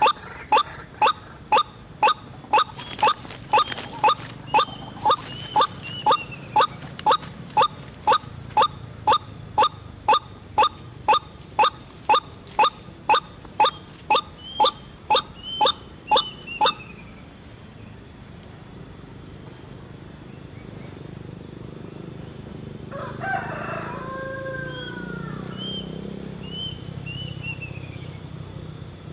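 White-breasted waterhen calling: a long run of loud, short, falling 'kruak' notes about two a second, which stops abruptly after about seventeen seconds. Small birds chirp faintly between, and later another, gliding bird call is heard.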